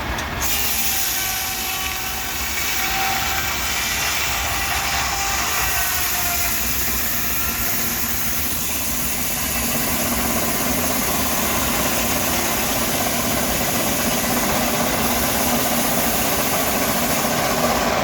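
Steam engine running with a loud, steady hiss of steam. It starts and stops abruptly.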